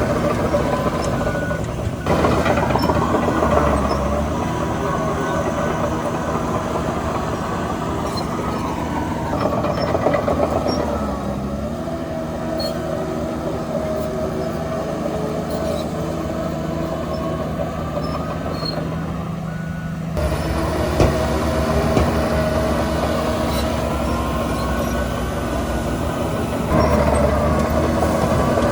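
Diesel engine of heavy earthmoving machinery running under changing load, its note shifting several times. High squealing tones glide up and down over the engine sound.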